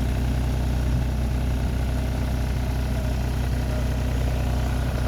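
A heavy vehicle engine idling steadily with a deep, even hum.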